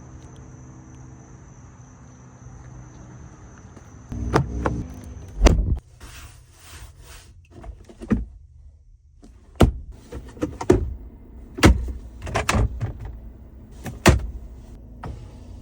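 Pickup truck doors and latches being worked: a low steady hum for the first few seconds, then a series of sharp clicks and thunks, some in quick clusters, as doors and panels open and shut.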